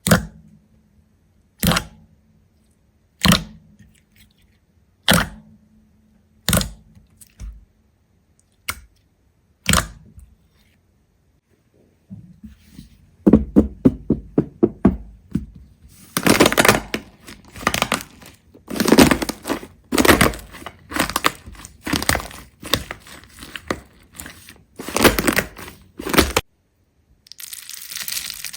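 Seven sharp cracks, about one every second and a half, then a short pause and a long run of dense crunching and crackling that stops suddenly near the end, followed by a brief hiss.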